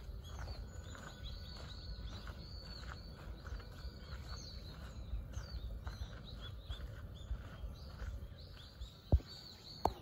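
Birds chirping: many short, high chirps over a low rumble, with two sharp clicks about a second apart near the end.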